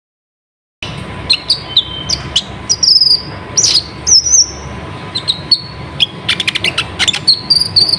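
Kolibri ninja sunbird singing vigorously: a rapid run of sharp, high chirps, short trills and whistled slurred notes, starting abruptly about a second in, over a steady low background hum.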